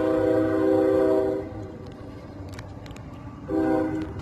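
Train horn blowing over the low rumble of the approaching train: one long blast that cuts off about a second and a half in, then a second blast starting near the end.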